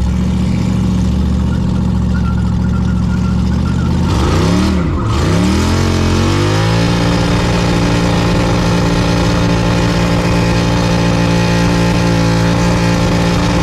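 Texas Speed 416ci LS3 V8 running hard at a steady rpm; about four seconds in the revs dip and climb, then hold steady at a higher pitch.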